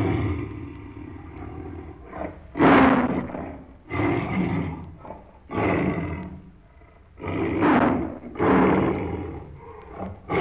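Tiger roaring and growling, about six rough roars in a row, each swelling and fading away; the loudest is about two and a half seconds in.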